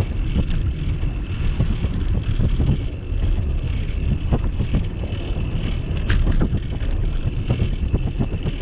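Wind buffeting the microphone of a camera mounted on a moving bicycle, with a steady low rumble and irregular small knocks from the bike rolling over the path.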